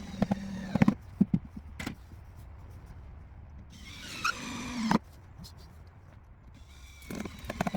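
Power drill driving screws into wood in three short bursts, the motor whining and changing speed, with a rapid rattle during the last burst near the end.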